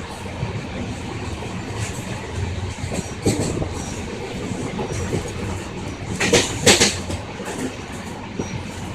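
Passenger train running, heard from on board: a steady rumble of wheels on the track, with a knock a few seconds in and two loud sharp clacks about six seconds in as wheels cross a rail joint.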